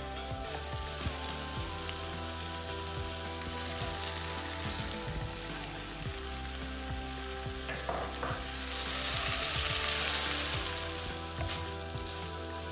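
Chicken and vegetable stir-fry sizzling in a hot wok as it is stirred with a wooden spoon. The hiss swells louder about nine seconds in, after clear liquid is poured into the pan.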